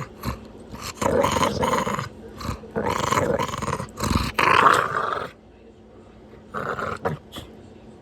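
A pet dog growling in play: several rough growls of about a second each with short breaks between them, the longest and loudest a little past the middle, then one short growl near the end.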